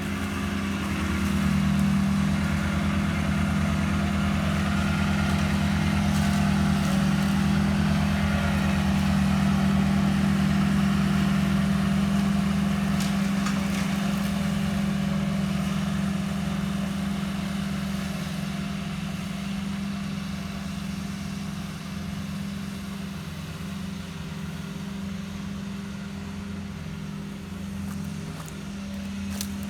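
Walker ride-on mower's Kubota engine running steadily at an even speed, a little quieter in the second half.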